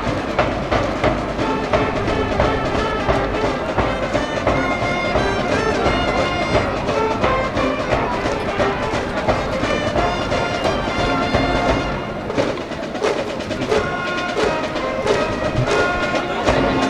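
High-school baseball cheering brass band playing a cheer tune, trumpets over a steady drum beat.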